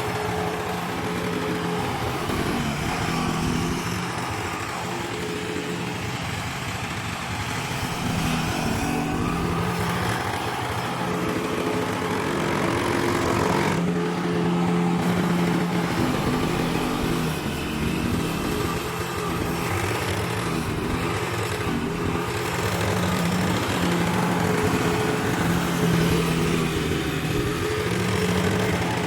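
An engine running steadily, its pitch stepping up and down a little as the load changes, over a rushing noise.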